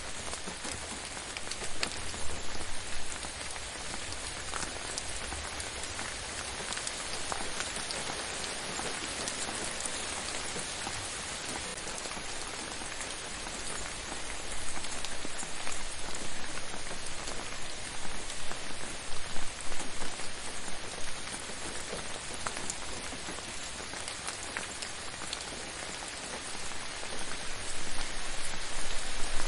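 Gentle steady rain falling on a surface, a continuous patter of many small drops, swelling a little at times.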